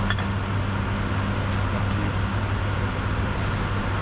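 Steady cockpit noise of a Bombardier Challenger 605 in flight: an even rush of airflow and air conditioning over a low, steady hum. A brief click sounds right at the start.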